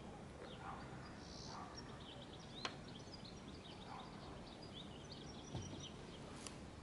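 A small bird twittering, a quick run of short high chirps lasting a few seconds, over a steady background hiss. There is a sharp click about two and a half seconds in and another near the end.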